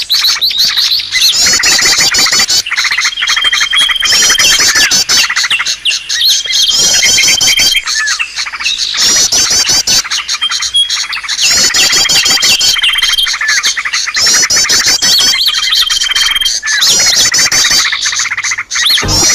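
Bird-lure recording of many small songbirds chirping and trilling at once in a dense, busy chorus. A short steady whistle and the same rapid phrases repeat every two seconds or so, as in a looped track.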